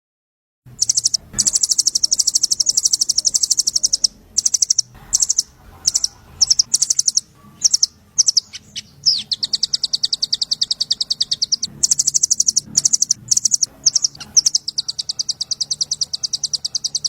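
Small songbird singing rapid, high-pitched trills, the machine-gun 'trotol' type of call used as masteran to teach a murai batu. The trills come in long runs of a few seconds each, with shorter choppy phrases in between.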